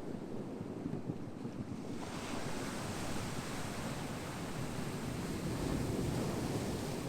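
Ocean surf: a wave builds and washes in about two seconds in, a steady rushing hiss that eases off near the end.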